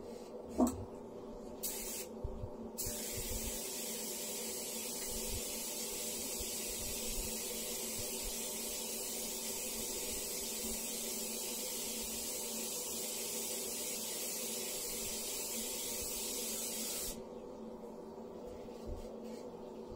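Air-fed detail spray gun hissing as it sprays a medium coat of adhesion promoter: a short burst about two seconds in, then one steady spray of about fourteen seconds that cuts off near the end. A brief rising squeak comes first, and a steady low hum runs underneath.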